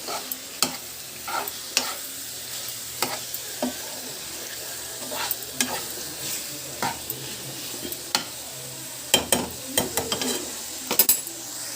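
Chicken pieces sizzling as they fry in a pan, while a spatula stirs them, scraping and knocking against the pan. Near the end comes a quick run of clattering strokes.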